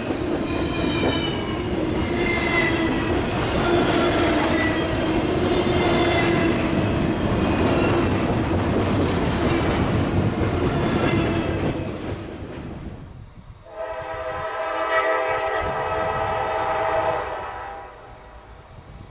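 Norfolk Southern freight cars rolling past close by, a loud rumble and clatter with squealing, gliding tones from the wheels. After about 13 seconds this gives way to one long locomotive horn blast of about three and a half seconds.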